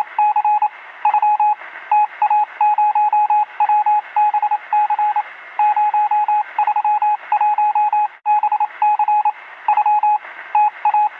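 Morse code: a single steady beep tone keyed on and off in a quick, irregular run of short and long pulses, heard over a hiss with the thin, narrow sound of a radio.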